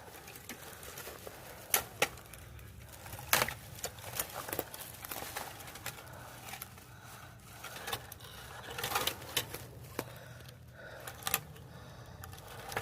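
Scattered sharp knocks and clicks at irregular intervals, from pieces of a knocked-down wooden fence being pulled apart and handled.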